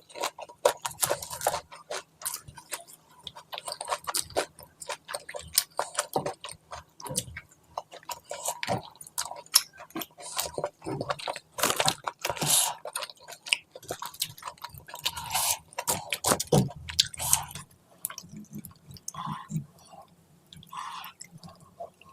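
Close-miked eating: chewing and biting food, with a dense run of quick wet clicks and crunches that grow sparser near the end.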